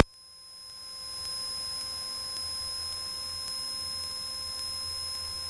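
Steady electrical hum and thin high whine with faint hiss on a Cessna 172's intercom audio feed. It swells in over the first second after a radio transmission cuts off, then holds level.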